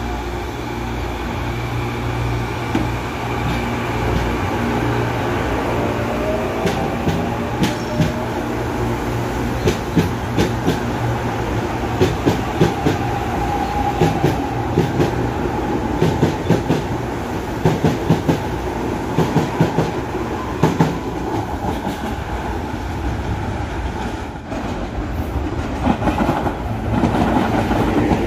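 Série 8900 electric commuter train running past at close range, with an electric whine and its wheels clacking over rail joints in quick groups. Near the end the sound changes to another electric train running by.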